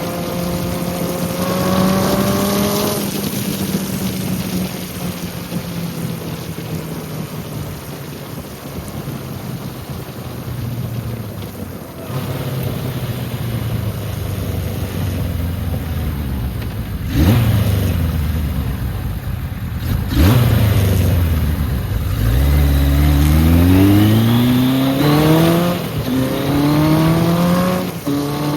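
1980 Kawasaki KZ1000 LTD's air-cooled inline-four engine on a test ride: cruising steadily, then in the last few seconds accelerating up through the gears, the revs climbing and dropping back with each shift. Two sharp knocks come about three seconds apart midway.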